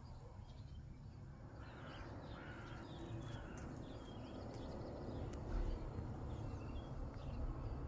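Birds calling, a quick run of short chirps and calls that starts about a second and a half in, over a low rumble that grows louder after about five seconds.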